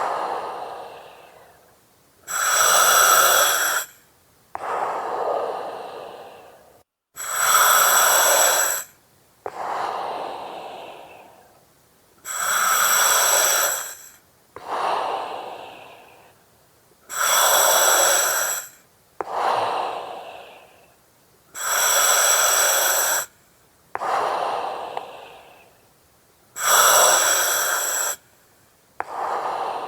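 Slow, steady breathing through an oxygen mask, about six breaths. Each breath is a loud hiss of about two seconds with a ringing, whistly edge, followed by a softer breath that trails off.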